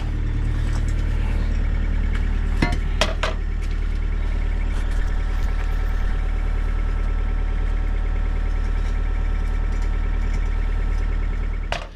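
An engine running steadily at idle, with a few sharp metal clinks about two and a half to three and a half seconds in.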